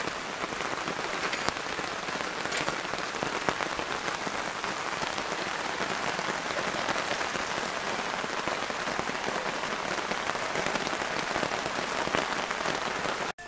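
Steady rain falling on the tarp overhead and the ground around it, an even hiss with no break, which cuts off suddenly near the end.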